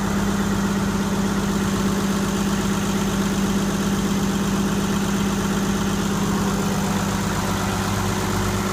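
Ford Lehman 120 six-cylinder marine diesel running steadily on its rebuilt injection pump. It is an even, very reassuring sound, with no misfire or change in speed.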